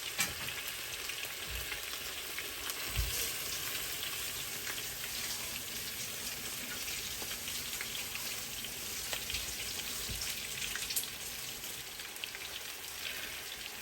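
Chilli chicken with capsicum sizzling in hot oil in a pan: a steady frying hiss full of small crackles, with a few dull knocks.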